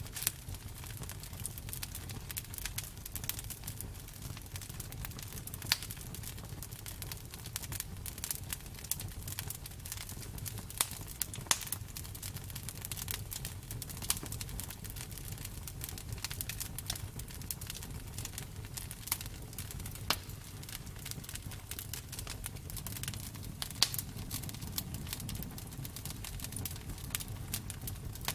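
Campfire burning: a steady low rumble with frequent irregular crackles and a few sharper pops, as of wood burning.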